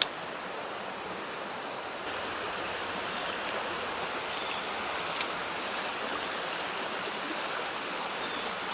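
Creek water running, a steady rushing that swells slightly about two seconds in, with a sharp click right at the start and another about five seconds in.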